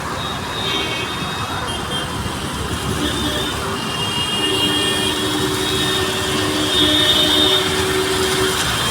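Road traffic in the rain: a constant hiss of rain and tyres on the wet road with vehicle engines, and steady high tones held for a second or more at a time, growing louder in the second half.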